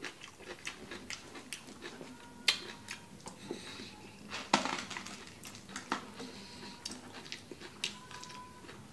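Close-up chewing with the mouth closed: a steady run of soft, wet mouth clicks. A few sharper clicks and crunches stand out, the loudest about four and a half seconds in.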